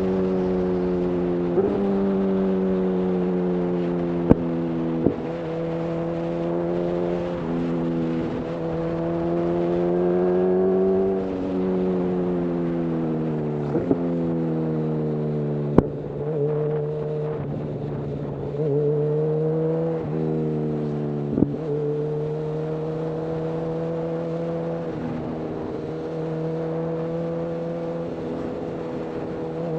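Honda CB1000R inline-four running through a full-system Black Widow aftermarket exhaust at cruising speed. The engine pitch rises and falls and steps abruptly several times through the stretch, with a few sharp clicks along the way.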